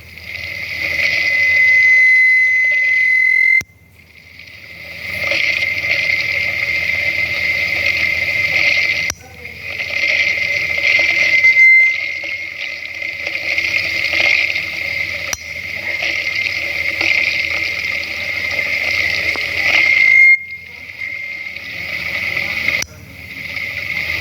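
Loud hiss of water rushing through a pipe with a thin, steady high whistle over it. It breaks off abruptly several times and starts again.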